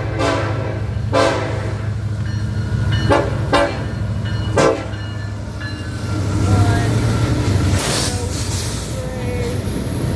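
Lead locomotive's air horn, a BNSF SD70ACE, sounding a string of about five short blasts in the first five seconds, over the steady low diesel rumble of the passing locomotives. Later there are thin squeals as the cars roll by.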